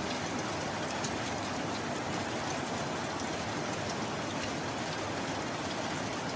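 Steady rain: an even, constant hiss with scattered sharp drop ticks.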